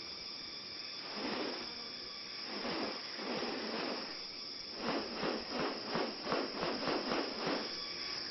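A series of harsh, rasping pulses from a bird of paradise: two single bursts, then a quick run of about three or four a second in the second half. Behind them is a steady high drone of rainforest insects.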